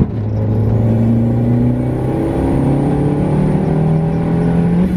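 Volkswagen Lupo's turbocharged 1.8-litre 20-valve four-cylinder engine pulling hard under full throttle, heard from inside the cabin. The engine note holds steady at first, then climbs in pitch over the last three seconds as the revs rise.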